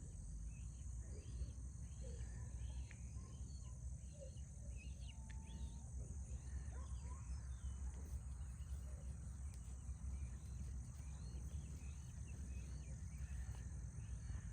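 Outdoor insect chorus: a steady, high-pitched continuous trill, with scattered short chirps and a low steady rumble beneath.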